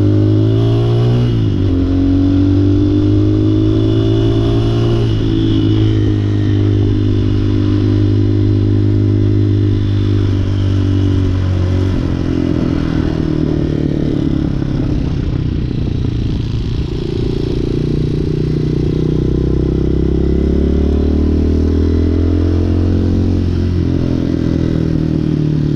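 Hawk 250 motorcycle engine running while riding. Its pitch climbs at the start, holds steady for a few seconds, then drops and wavers as the throttle changes, and climbs again near the end.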